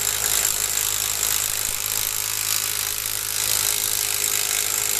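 Cordless impact wrench (rattle gun) hammering continuously, then stopping abruptly at the very end.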